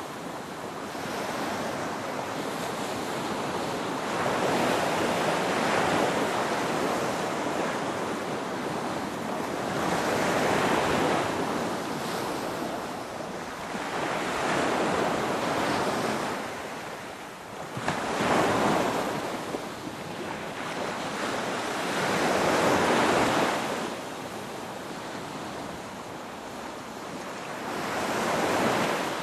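Ocean waves breaking and washing on the shore, each wave swelling up and falling away roughly every four to five seconds.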